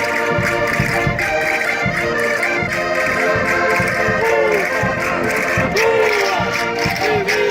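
Concertinas playing a lively Minho folk dance tune with a steady beat.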